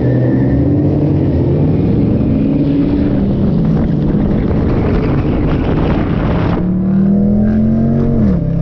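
Dodge muscle car's V8 engine running loud in traffic with wind hiss, its pitch climbing and sagging as the throttle comes on and off. About two thirds of the way in the hiss drops away and one engine note holds and rises slowly, then falls off near the end as the revs drop.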